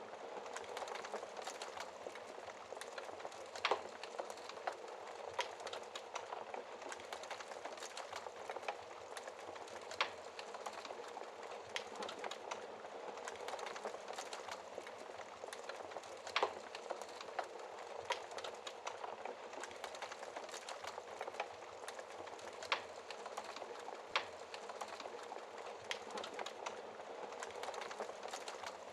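Wood logs burning in a fireplace: a steady hiss of flame with constant small crackles and a sharper, louder pop every few seconds.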